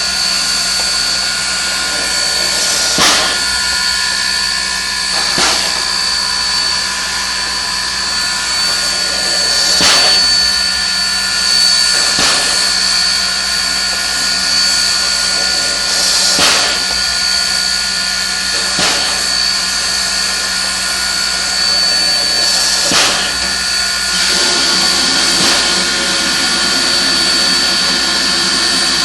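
Steam locomotive hissing steadily, with a thin high-pitched tone over the hiss. Short sharp knocks come every two to four seconds.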